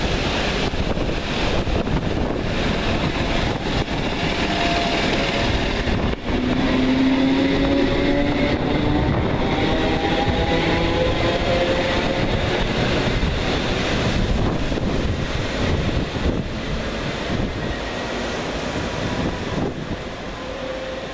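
Northern electric multiple unit pulling away, wheels rumbling on the rails and a motor whine that slowly rises in pitch as it gathers speed, with wind rumble on the microphone. The sound fades near the end as the train draws away.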